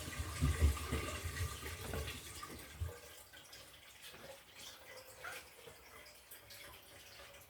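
Water rushing and sloshing in an LG top-loading washing machine's tub, cutting off about three seconds in and leaving quieter dripping.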